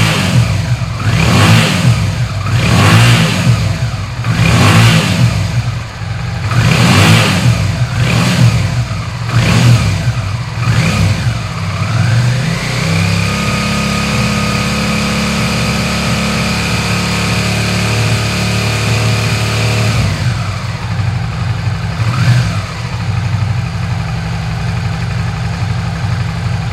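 Carburetted Suzuki SV naked motorcycle's 90° V-twin revved in quick throttle blips, then held at steady higher revs for about eight seconds. It then drops back to idle, with one more blip near the end.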